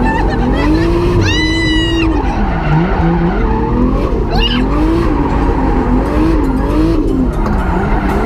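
Drift car's engine heard from inside the cabin, revving up and falling back again and again as the car slides, over a steady skidding tyre noise. A short high-pitched squeal cuts in just over a second in.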